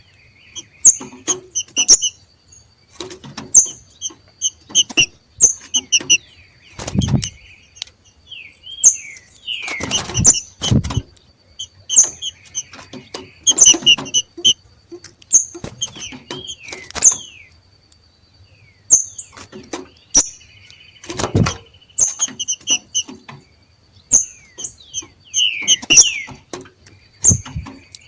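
Green-winged saltators (trinca-ferros) giving the 'macheado', the excited territorial calling of birds coming into breeding condition: short, sharp, repeated notes in quick clusters with a few down-slurred notes between. A few low thumps and a faint steady high tone sound underneath.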